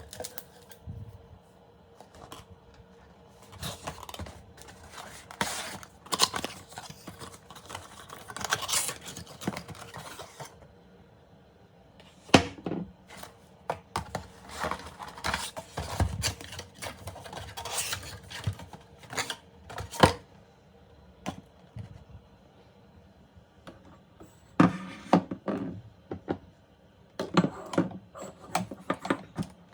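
Irregular scraping, tapping and clinking of kitchen utensils and dishes being handled, in uneven bursts with short quiet gaps.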